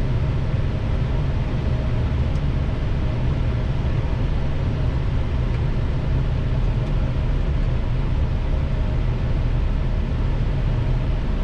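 Steady flight deck noise of an Airbus A321 on final approach: a constant low rumble with a faint steady hum.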